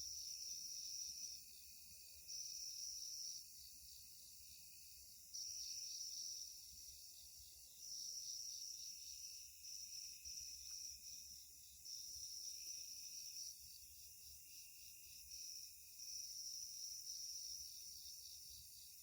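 Night insects calling faintly: repeated high-pitched buzzing trills, each lasting about a second before a short pause, over a steady high chorus.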